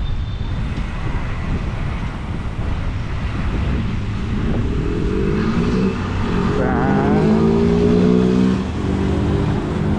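Low wind rumble on the microphone of a moving bike, then a motor vehicle's engine revving up nearby from about four seconds in, its pitch rising and then holding steady before easing off near the end.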